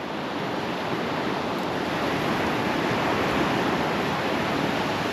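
Surf breaking and washing up the beach: a steady rushing noise that swells slightly partway through, with wind mixed in.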